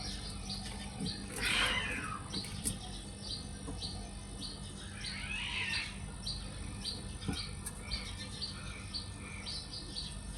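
Small birds chirping: short high notes repeating two or three times a second, with two louder sweeping calls, one about a second and a half in and one about five seconds in, over a steady low hum.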